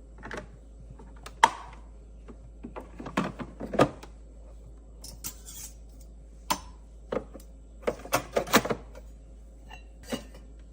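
Scattered clicks and knocks of an espresso machine's removable drip tray parts being handled and fitted, coming singly and in quick irregular clusters, the sharpest about a second and a half in.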